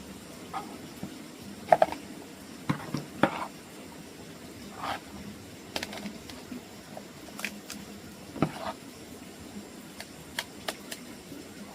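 Irregular light knocks and clatter of things being handled, about a dozen short strikes, the loudest around two and three seconds in, over a steady low background.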